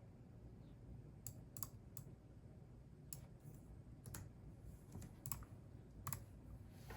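Faint, unhurried typing on a computer keyboard: single keystrokes clicking at irregular intervals, roughly one every half second to a second, after a quiet first second.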